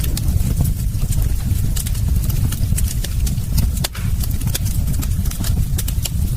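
Fire in a fireplace burning, with frequent sharp crackles and pops over a steady low rumble of flames.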